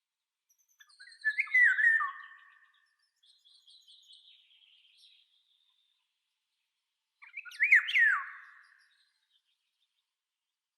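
A songbird singing: two loud whistled phrases with sliding pitch, about six seconds apart, with fainter high twittering between them.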